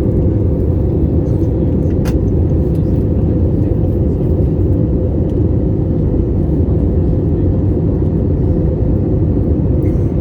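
Steady low rumble of a Boeing 787-8 airliner in flight, its engines and airflow heard inside the passenger cabin, with a single sharp click about two seconds in.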